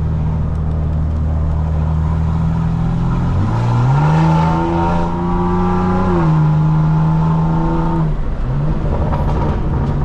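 Straight-piped BMW M4 Competition's twin-turbo inline-six exhaust, steady at light throttle at first, then rising in pitch as the car accelerates about three and a half seconds in. The pitch drops sharply near the sixth second and again briefly near the eighth before settling.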